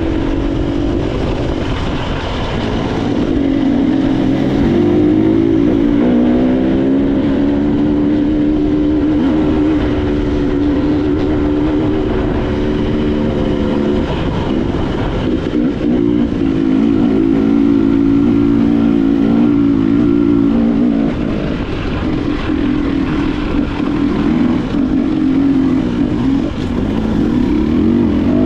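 Motorcycle engine running under way, with steady wind and road noise. The engine note climbs a few seconds in, holds, drops about halfway through, then picks up again.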